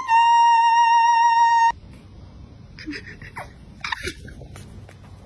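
A singing voice holds one long, flat, steady note that cuts off suddenly under two seconds in. After that come only a few faint, scattered small sounds.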